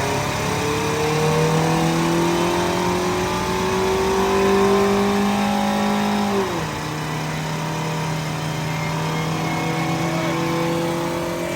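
Mazda Miata (NA) four-cylinder engine pulling on a chassis dyno, its revs climbing slowly under load. About six and a half seconds in the pitch drops sharply once, then climbs slowly again.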